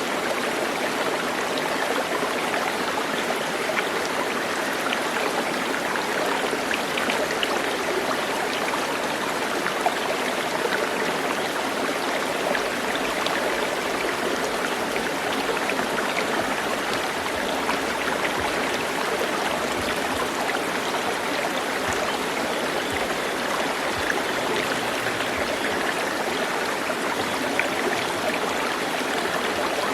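Flowing water rushing steadily, as of a stream.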